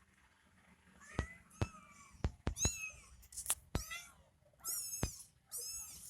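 Kitten mewing over and over in short, high-pitched calls, with sharp clicks between them.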